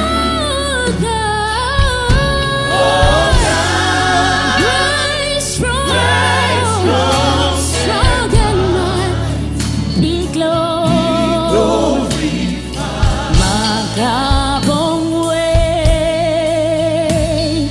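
Church choir singing a gospel worship song with vibrato on held notes, over instrumental backing with steady low bass notes and scattered drum strokes.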